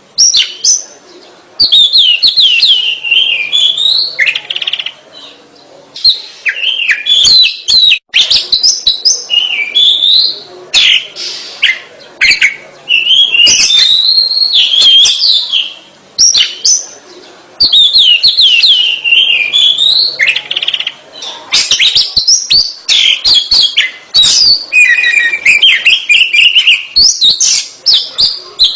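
Oriental magpie-robin in full song: loud phrase after phrase of sweeping whistles and quick chattering notes, with short pauses between phrases. Near the end comes a run of buzzy, rapidly repeated notes.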